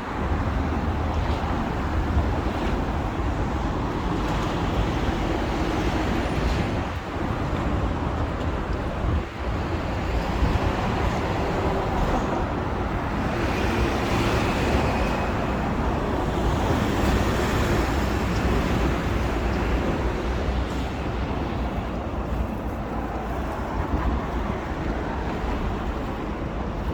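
Steady city road traffic: a continuous rumble of cars and other vehicles on the street, with a louder stretch about halfway through.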